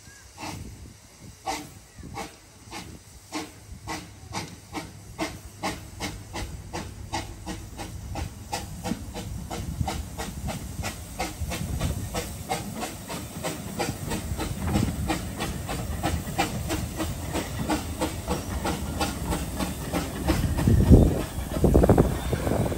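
Narrow gauge steam locomotive pulling away, its exhaust chuffs starting about one a second and quickening to three or four a second as it gathers speed, over a steady hiss of steam. A louder low rumble swells near the end.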